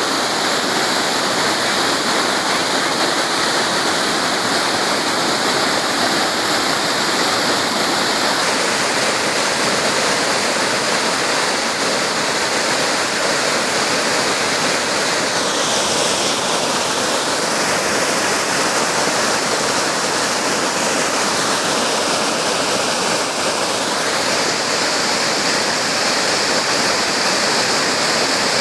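Steady rush of falling and tumbling water from a waterfall. Its tone shifts slightly a few times.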